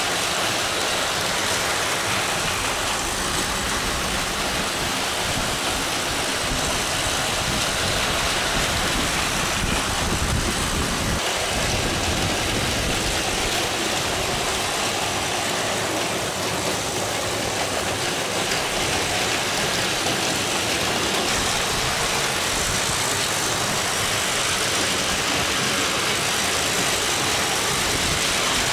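Battery-powered Plarail toy trains and a Motor Tomica toy car running together on plastic track: a steady whirring and clattering of small motors and wheels.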